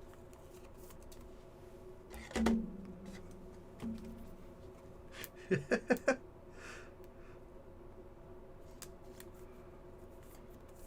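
Quiet handling of trading cards, with a soft knock about two seconds in and a quick cluster of four short sounds around the middle, over a faint steady hum.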